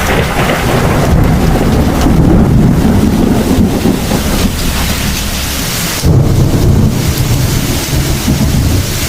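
Heavy rain with rolling thunder: a deep rumble under the steady hiss of rain. A fresh, louder peal breaks in suddenly about six seconds in.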